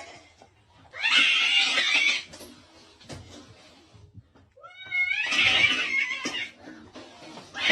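A cat yowling twice, each call noisy and hissy and over a second long, the second opening with a wavering cry.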